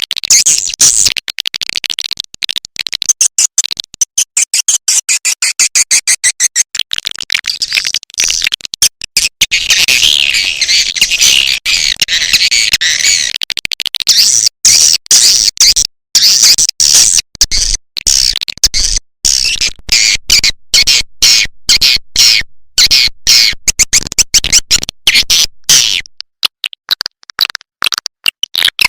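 Swiftlet calls played as a lure track: a dense, continuous chatter of high, rapid chirps and twitters, chopped into many short bursts. It is a 'suara panggil' (call sound) used to draw swiftlets into a swiftlet house.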